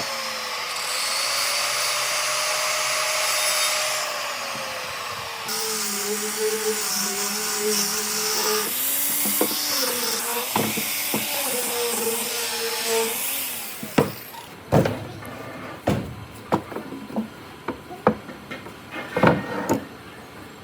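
An electric power tool working wood, its whine wavering and dipping in pitch as it takes load, then stopping about fourteen seconds in. After it stops come several sharp, irregular knocks.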